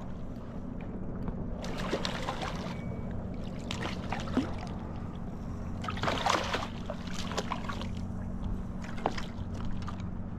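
Water splashing and sloshing around a kayak in short bursts, several times, over a steady low hum.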